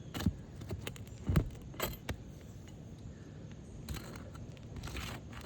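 Sharp clicks and scrapes of a metal hand tool working against asphalt roof shingles and their nails while a damaged shingle is being loosened, with a louder clink about a second and a half in and a softer stretch of scraping near the end.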